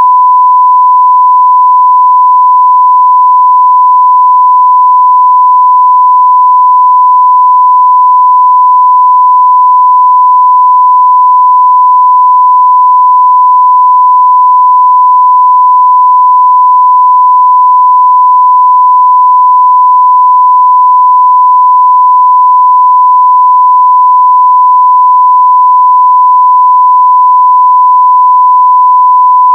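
A steady, unbroken 1 kHz sine-wave test tone at near full level, a single pure pitch with no other sound.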